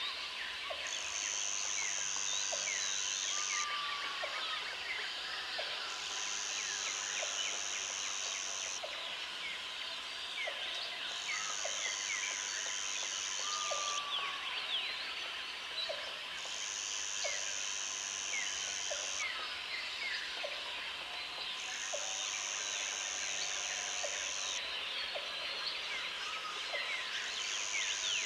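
Jungle chorus of insects and birds. A high insect buzz switches on for about three seconds, stops for about two, and repeats six times, over a thick layer of chirps and trills and a regular low tick about twice a second.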